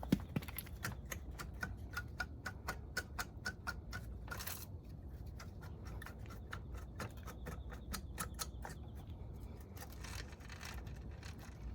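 Rapid run of light clicks, about five a second, opening with a knock. A short rustling noise breaks in about four seconds in, then the clicking resumes before another brief rustle near the end.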